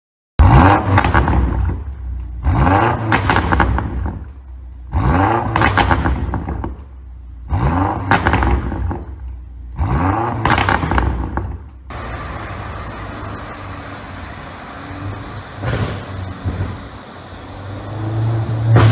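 BMW F90 M5's twin-turbo V8 revved five times in quick succession, each rev falling away into a rapid string of exhaust pops and crackles from an ECU tune set for overrun pops. Then the engine settles into a steadier rumble with a few cracks, growing louder near the end.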